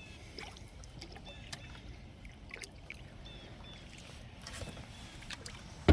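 Canoe paddling on calm water: faint dripping and trickling from the paddle with small scattered clicks, a slightly louder paddle stroke about four and a half seconds in, and a sharp knock at the very end.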